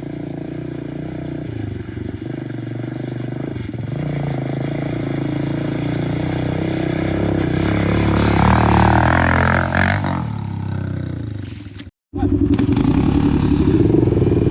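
Dirt bike engine running and building in revs, louder and higher until about nine seconds in, then easing off. It cuts off abruptly near the twelve-second mark and resumes at a steady throttle.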